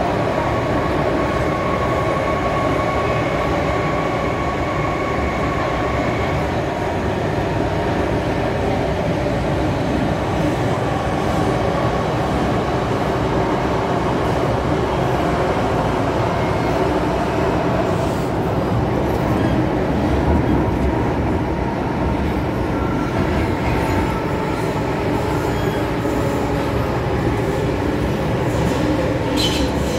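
MTR Island Line M-Train running at speed through its underground tunnel: steady, loud rumble of wheels on rail and traction equipment, with a thin steady whine over it during the first several seconds. Just before the end a high screech of wheels on rail begins.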